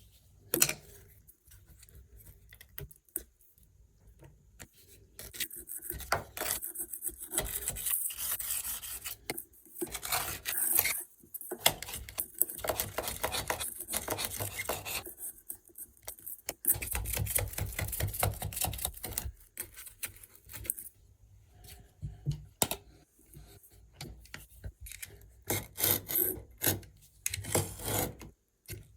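Hand blade scraping old silicone sealant away around a shower tray: irregular rasping strokes with small clicks, busier at times and pausing now and then.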